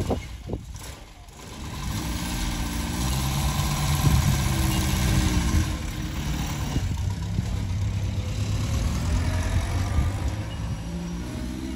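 Series 1 Land Rover's four-cylinder engine running as the vehicle drives past. Its pitch rises and falls with the throttle, and it grows louder about two seconds in. A few knocks come in the first second.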